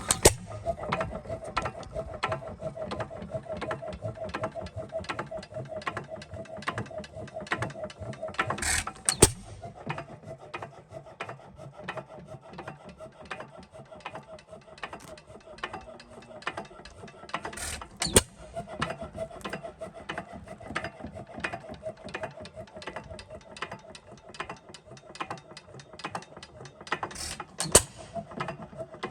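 4 hp Sandwich hit-and-miss engine running and coasting, with a fast steady clicking of its moving parts. A loud sharp bang comes about every nine seconds, twice as a quick pair, in the way such an engine fires only when it slows.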